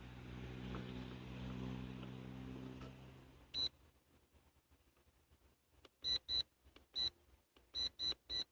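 Short, high-pitched electronic beeps from a freshly paired XK X520 radio-control plane and its transmitter, about seven in all, some in quick pairs. They come after a low steady hum that fades out about three and a half seconds in.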